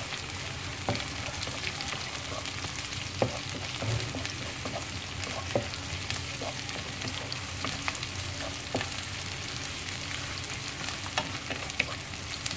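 Sliced onions, garlic and red chillies sizzling in hot oil in a non-stick wok, with a steady frying hiss and scattered light clicks and scrapes from a wooden spatula stirring them.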